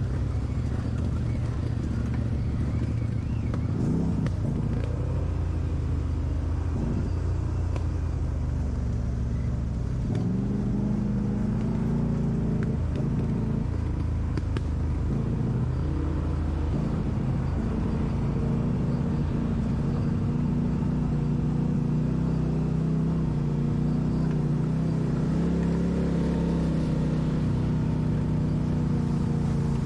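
Off-road vehicle engine running steadily under low throttle, its pitch stepping up about a third of the way in, with a few light knocks.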